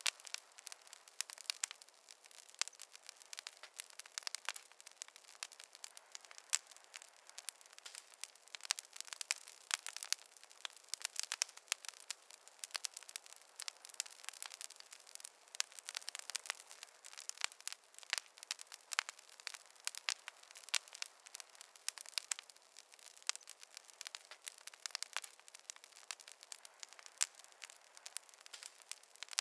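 Wood fire crackling steadily: many small irregular pops and snaps from burning logs over a soft hiss.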